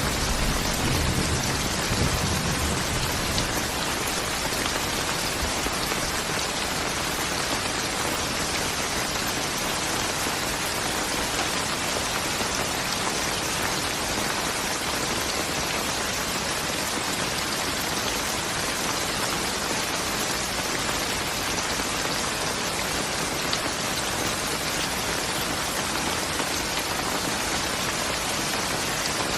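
Steady, even rain falling. A low rumble of thunder fades out in the first few seconds.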